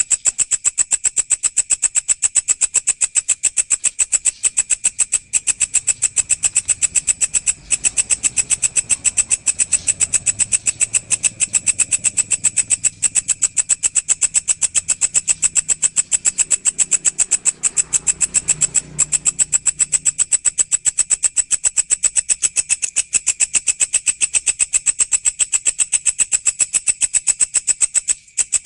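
A walang (katydid or grasshopper) stridulating: a steady, rapid train of high-pitched buzzing pulses with only a few brief breaks.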